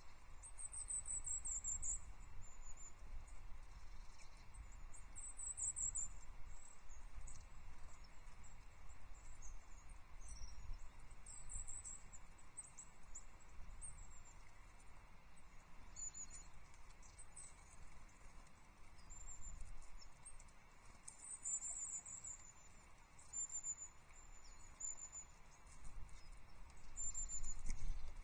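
Small songbirds, tits, giving many short, high-pitched thin calls through the whole stretch, over a steady low rumble.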